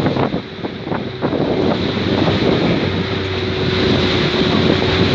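Small boat's engine running steadily under heavy wind buffeting the microphone, with the sea's waves rushing alongside. The wind eases briefly in the first second or so.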